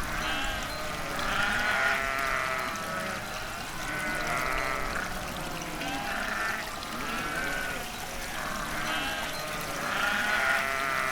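A flock of livestock bleating, many overlapping calls one after another with no break.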